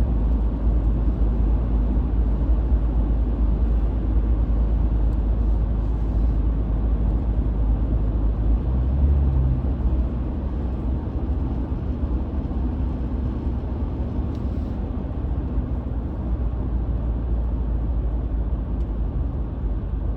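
Car driving, a steady low engine and tyre rumble heard from inside the cabin, easing slightly about halfway through.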